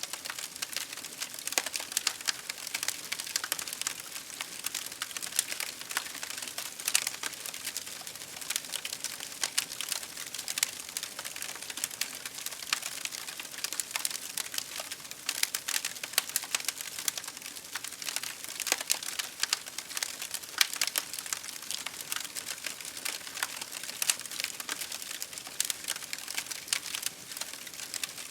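Campfire crackling, with many irregular sharp pops and snaps of burning wood over a steady hiss of rain.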